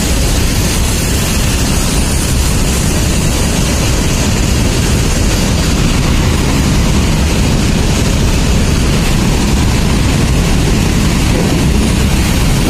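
Freight train of covered goods wagons passing close by: a steady, loud rumble of wagon wheels on the rails.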